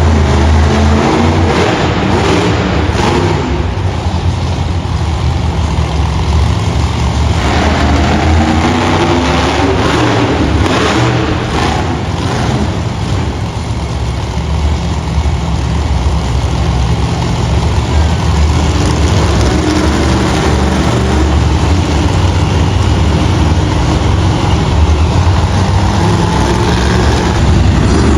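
Loud monster truck engine running hard, revving up and down repeatedly.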